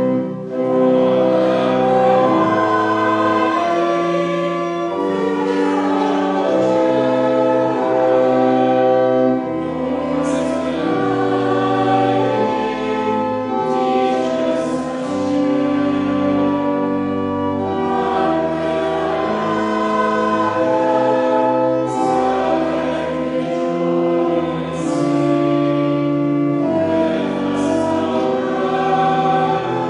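Choir singing a slow hymn in long held chords, with the music carrying on steadily.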